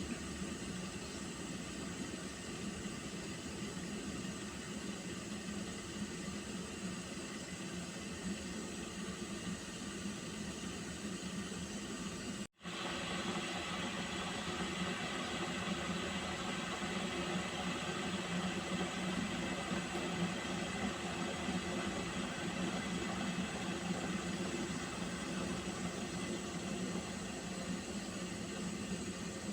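Water being boiled, giving a steady hiss. The sound cuts out for an instant about twelve seconds in, then carries on slightly louder.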